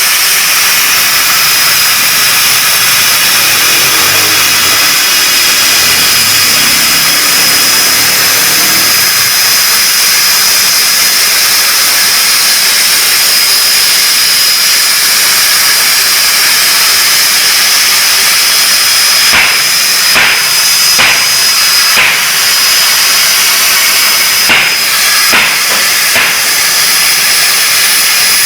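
CNC plasma cutter cutting steel plate: the plasma arc and its air jet give a loud, steady hiss with a high whine. Several sharp clicks or pops come in the last third.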